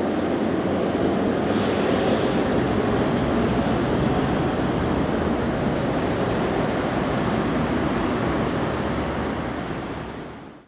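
Tram running by with a steady rumbling noise, fading out near the end.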